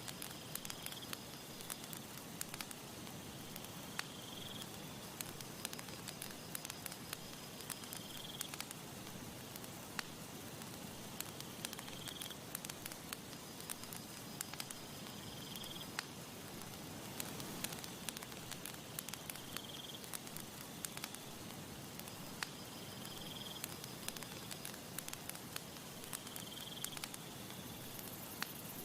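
Campfire crackling steadily, with frequent sharp pops and snaps of burning wood over a soft low rush. A short high chirp repeats about every four seconds in the background.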